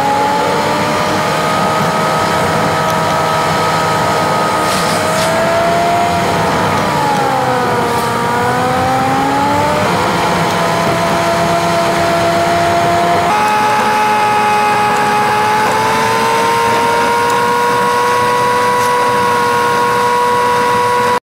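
A vehicle driving, heard from inside the cabin: steady engine and road noise with a droning whine whose pitch glides down and back up and then steps abruptly twice, about ten and thirteen seconds in.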